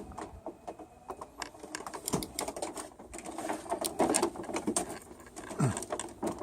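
Irregular light clicks and knocks, scattered unevenly with several close together at times, with no steady motor sound.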